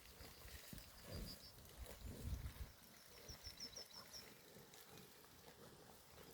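Faint rural outdoor ambience: two short runs of quick high chirps, the second about three seconds in, over soft low rustling and thumps.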